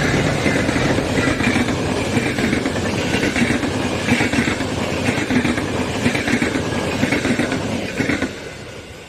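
A train passing close by at speed, its wheels beating out a regular clatter about once a second, before the noise drops away sharply after about eight seconds as the last car goes by.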